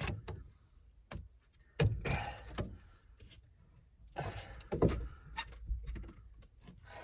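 Scattered knocks, clicks and clatter from handling tools and parts during repair work, with a louder thunk about two seconds in and a scraping, rustling stretch around four to five seconds.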